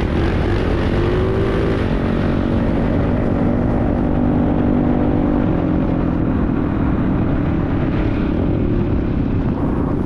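Small 110 cc single-cylinder four-stroke pit bike engine running steadily while riding, its pitch holding roughly even.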